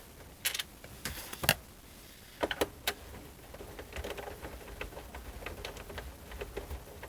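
Small, sharp clicks and taps of a screw and screwdriver working against the plastic case of a boombox, a few louder knocks in the first three seconds, then a run of light ticking.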